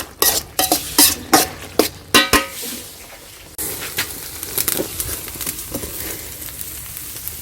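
A utensil clinks and knocks against a cooking pot about a dozen times, some strikes ringing briefly. About halfway through, a steady sizzle of food frying in a hot pan starts suddenly, with light crackles.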